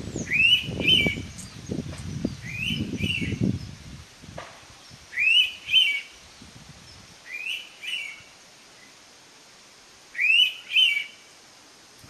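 Indian pitta calling: a clear two-note whistle, the first note rising, repeated five times about every two and a half seconds. A low rumbling noise runs under the first few calls and stops about four seconds in.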